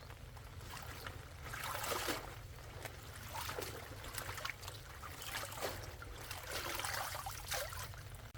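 Water splashing and trickling in about five irregular surges, over a steady low hum.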